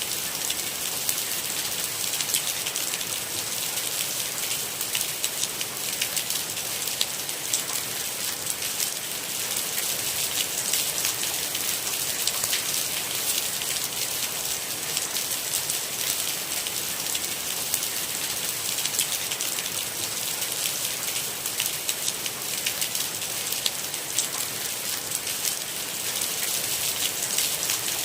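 Steady rain: a dense patter of drops over an even hiss.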